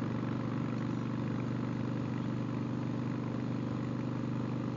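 Harley-Davidson Sportster 1200's V-twin engine running at a steady pace through a Vance & Hines staggered shorty exhaust.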